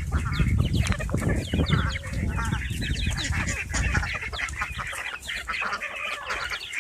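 A flock of poultry calling, many short clucks and chirps overlapping, over a low rumble that fades after about five seconds.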